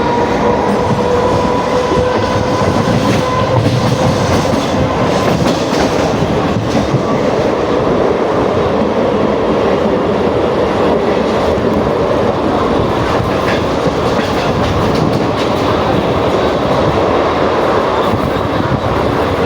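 Mumbai suburban local electric train running between stations, a steady loud noise of wheels on track. A thin whine fades out over the first five seconds.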